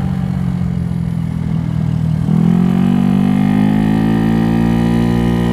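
GY6 50cc scooter engine, bored out to 88cc, running steadily. A little over two seconds in it gets louder, and its pitch climbs gradually as the throttle opens and the scooter accelerates.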